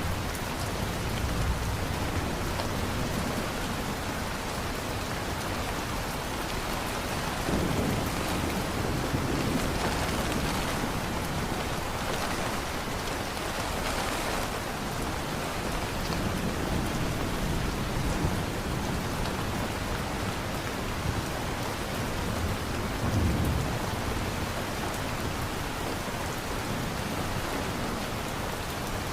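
Steady heavy rain falling, with low rumbles of thunder swelling up twice, about eight seconds in and again about twenty-three seconds in.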